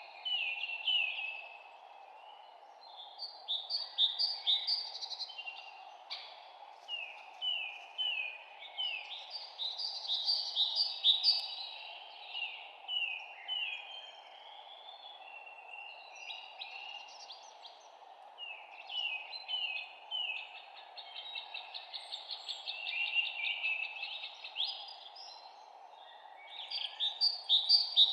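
Several songbirds chirping and trilling in quick runs of repeated notes, overlapping one another, over a steady low hiss.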